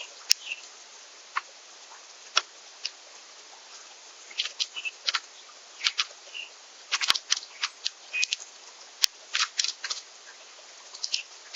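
Irregular sharp clicks and cracks of seeds being pecked and cracked at a backyard bird feeder, some in quick clusters. A few short high chirps are mixed in.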